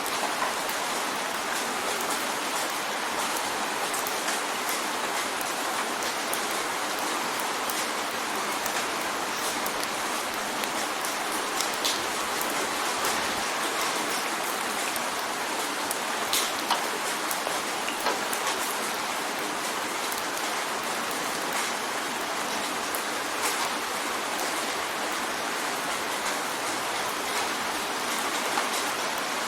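Steady rain drumming on a window pane: a constant hiss of rain with many sharp little taps of individual drops hitting the glass.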